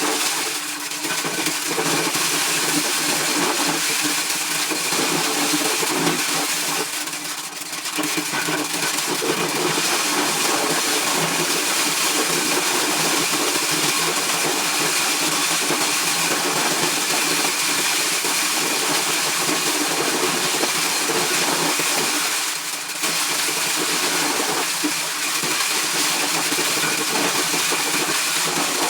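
Engine-driven corn-shelling machine running steadily, with a dense mechanical noise that dips briefly twice, about seven seconds in and again near 23 seconds.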